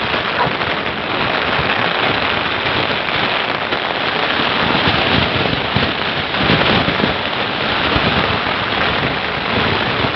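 Heavy rain pelting a plastic sheet in a strong wind, a dense steady hiss broken by a few low gusting thumps around the middle.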